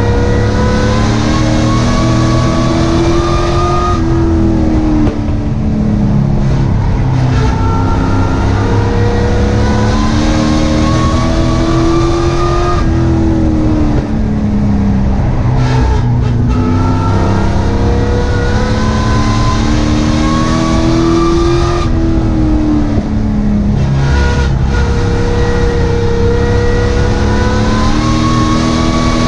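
Sport truck race engine heard from inside the cab, running hard. Its pitch climbs for several seconds, then drops as the driver lifts, repeating about every eight seconds: accelerating down each straight and backing off into each turn.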